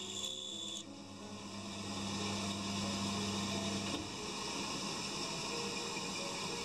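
Pégas scroll band saw running, its thin blade cutting through a stacked wooden blank; a high steady whine from the cut stops about a second in, and the saw's low hum carries on, easing about four seconds in.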